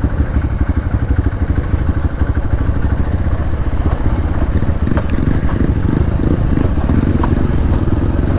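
Hero Xpulse single-cylinder motorcycle engine running steadily as the bike rides an off-road trail. A couple of light clicks come about five and seven seconds in.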